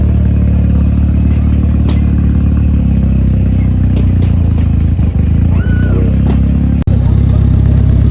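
Modified performance car engine running at a steady idle on a cold start, loud through its exhaust. The sound cuts out for an instant about seven seconds in, then carries on.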